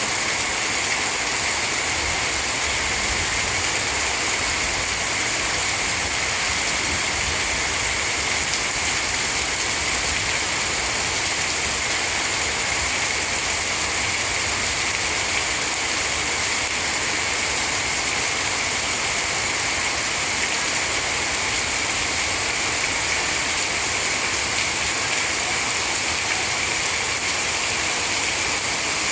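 Heavy rain pouring steadily, an even hiss with no breaks or changes.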